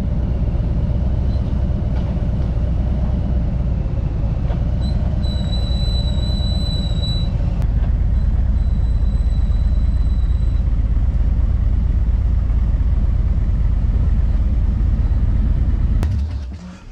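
Harley-Davidson Tri Glide trike's V-twin running at road speed with wind rumble on the microphone, a steady low drone. A thin high whine comes and goes in the first half, and the sound cuts off shortly before the end.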